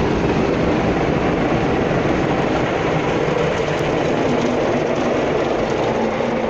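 Automatic car wash machinery running over the car, heard from inside the cabin as a loud, steady wash of noise.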